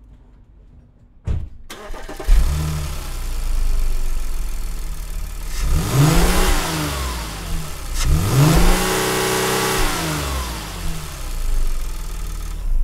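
A 2008 Audi A5's 3.2-litre V6 is cranked and catches about two seconds in, then idles. It is revved twice in the middle of the clip, its pitch sweeping up and back down each time, and settles back to idle before it stops at the very end.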